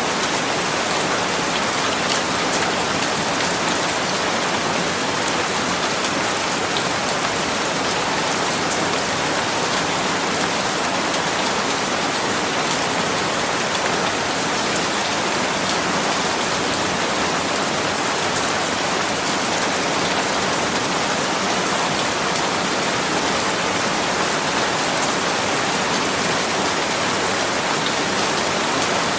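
Steady rain falling, a constant hiss with many small drop ticks on a surface.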